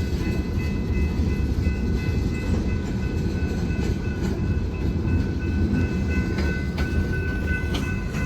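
Freight train of loaded scrap gondolas rolling past: a steady, heavy rumble of wheels on rail, with a thin, steady high-pitched squeal from the wheels and a few clacks over rail joints in the second half.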